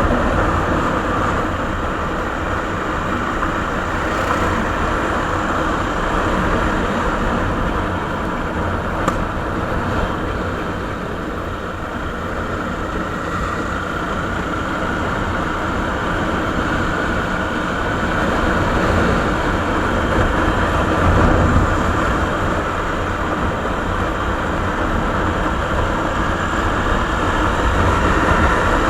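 Suzuki Savage (Boulevard S40) single-cylinder four-stroke engine running through its stock muffler, its level rising and falling gently, with a single click about nine seconds in.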